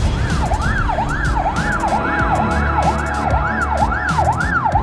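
Emergency vehicle siren on a fast yelp, its pitch sweeping up and down about twice a second, with a low rumble beneath.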